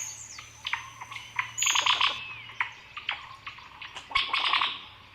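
Wild birds calling: scattered short chirps and whistled notes, with louder clusters of calls about two seconds in and again just after four seconds.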